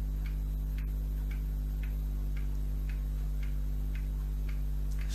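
Regular ticking, about two ticks a second, over a steady low electrical hum.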